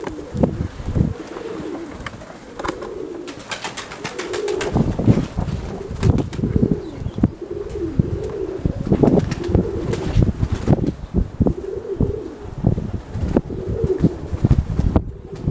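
Domestic pigeons cooing over and over in wavering, low calls. Gusty wind rumbles on the microphone, growing loud about five seconds in.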